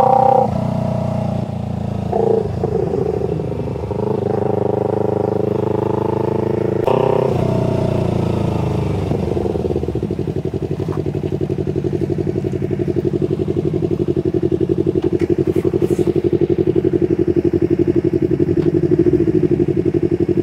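Parallel-twin sport motorcycle engine under way. Its pitch shifts up and down, with a few short breaks, through the first half, then it settles into a steady run that slowly grows louder.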